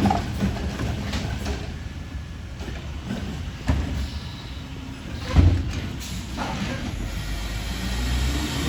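Garbage truck engine running with a low rumble, broken by several loud metallic clanks and bangs, the loudest a little past the middle.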